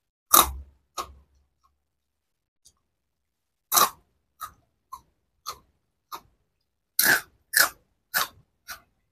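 Close-up crunching of a crisp, potato-flavoured puffed snack stick being bitten and chewed: a string of short, sharp crunches, about a dozen in all, loudest about a second in and near the end.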